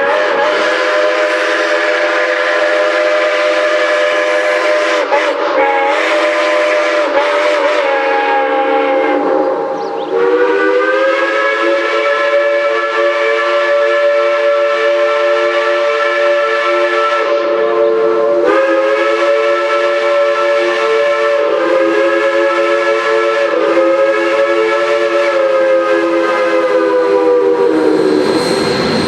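Steam locomotive whistles blowing long, steady blasts that sound as a chord of several pitches at once. The blasts are nearly continuous, with short breaks about ten and eighteen seconds in.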